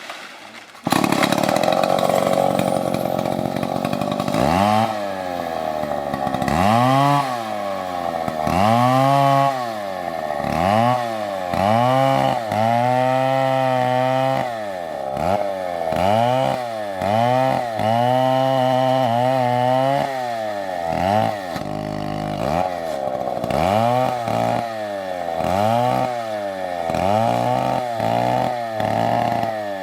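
Two-stroke chainsaw cutting a tree, coming in suddenly about a second in. Its engine speed drops and climbs again over and over, with a few longer stretches held at high speed.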